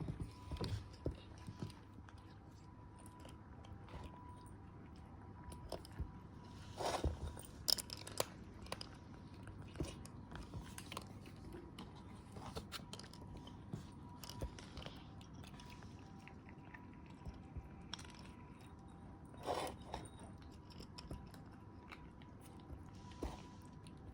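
Scattered soft crunches and clicks, with louder clusters about a third of the way in and again near the end, over a faint steady hum.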